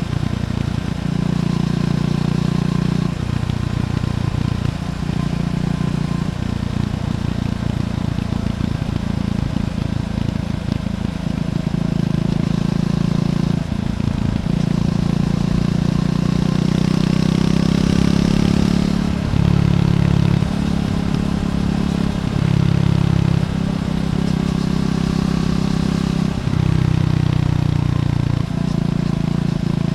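Triumph Scrambler 400X's single-cylinder engine through its stock exhaust while riding, its pitch stepping up and down every few seconds as the throttle and gears change.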